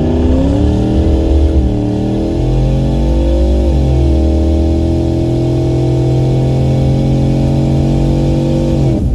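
Turbocharged 4.6-litre two-valve V8 of a Ford Thunderbird drag car running: its revs rise and dip twice, then hold at a steady speed for several seconds before easing off near the end.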